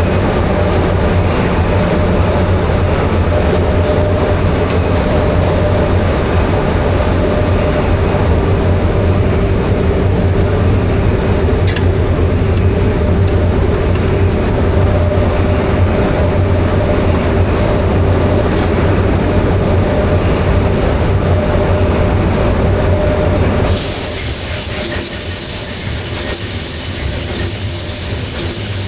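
Diesel generator engine running steadily on its trial run after a major overhaul: a heavy low rumble with a steady hum above it. About five seconds before the end the rumble drops away, and a loud hiss with a high whine takes over.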